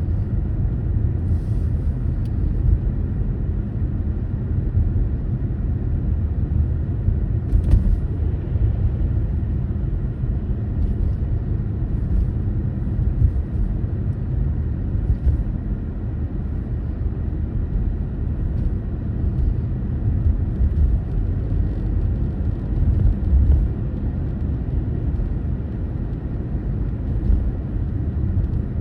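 A car driving, with a steady low rumble of engine and tyre noise on the road.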